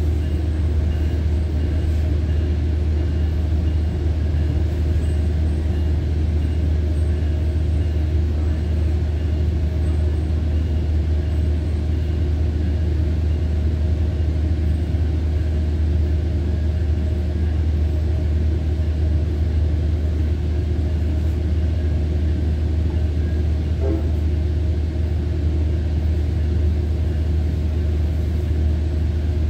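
Steady low rumble of a Tri-Rail commuter train running at speed, heard from inside a passenger car, with the ride noise of the car going on without a break.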